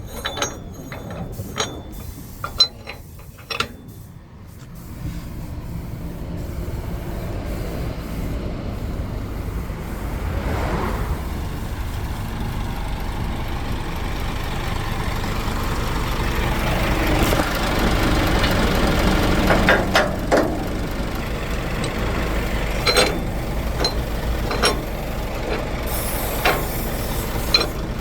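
Container truck heard from the cab: a few clicks and knocks at first, then the diesel engine running and building steadily from about five seconds in, with cab rattles. Near the end comes a short air hiss from the air brakes.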